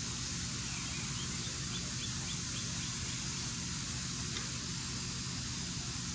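Steady industrial grinding noise, a constant drone with a low hum. About a second in, a bird chirps a quick run of short notes, about four a second, for a couple of seconds.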